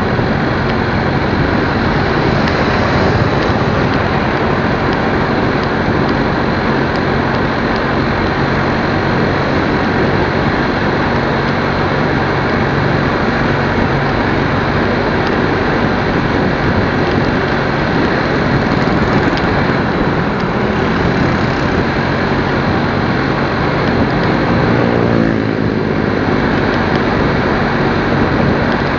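Steady, loud wind and road noise with a low engine hum, as heard while riding a motorcycle. A brief passing sweep in pitch comes about 25 seconds in.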